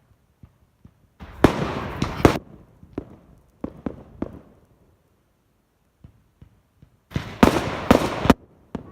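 Fireworks going off: two dense volleys of sharp bangs and crackling, each about a second long, one starting about a second in and the other near the end. Scattered single pops fall between them.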